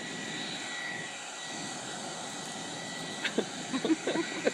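Hair dryer running steadily, a rushing blow with a thin high whine. A few short sharp sounds break in near the end.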